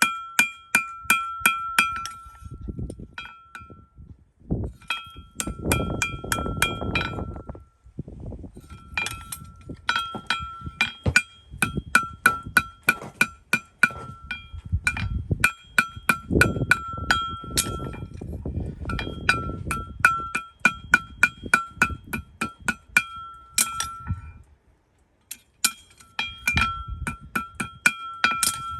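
Farrier's hammer striking steel in quick runs of about four ringing blows a second, with short pauses between runs. The same clear metallic ring sounds on every blow. Under the strikes is a duller scraping noise.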